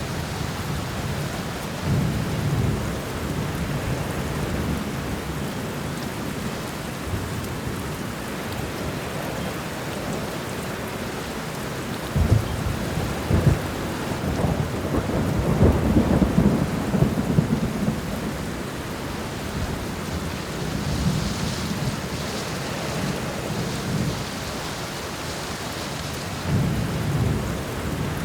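Steady rain with rolling thunder. Short rumbles come near the start and end, and the loudest, longest rumble begins about twelve seconds in with a couple of sharp cracks and rolls on for several seconds.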